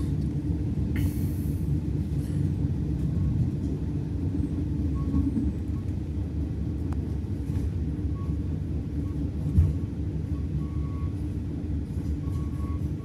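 Passenger train running along the track, heard from aboard: a steady low rumble, with a short hiss about a second in and a single thump about ten seconds in.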